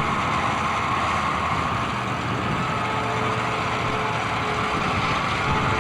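Super stock pulling tractor engine running steadily and loudly, with no clear rise or fall in revs.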